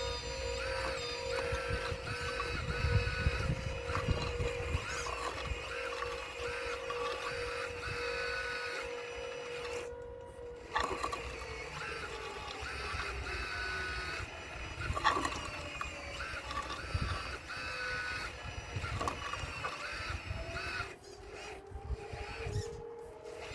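Radio-controlled Caterpillar model excavator working: its electric motors whine in short repeated bursts, and a steady drive tone sinks in pitch about halfway through and climbs back near the end. Low rumbling and a few sharp knocks come through, as from stones being moved.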